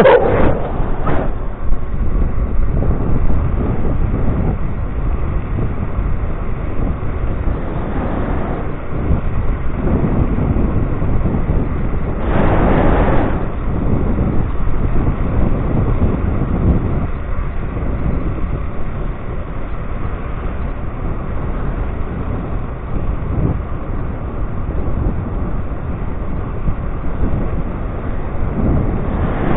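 Steady wind and road noise from riding an electric scooter, the wind rushing over the microphone, with a louder rush about twelve seconds in.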